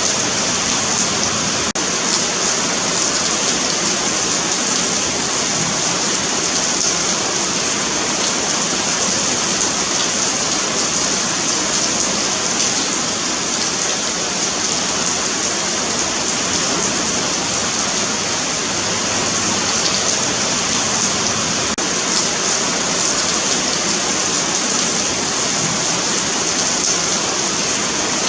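Steady rain falling on a paved sidewalk: an even, continuous hiss of drops with a bright, high edge.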